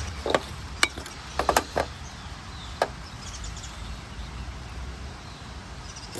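A few short, sharp knocks and clicks: one, then another, then a quick run of three about a second and a half in, and a last one near three seconds, over a steady low outdoor rumble.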